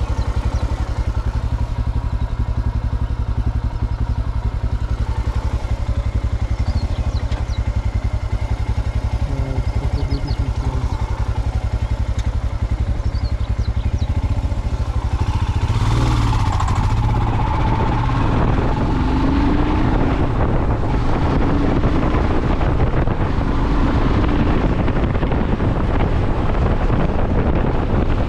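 Motorcycle engine running steadily while riding, with wind noise on the microphone growing stronger from about halfway through.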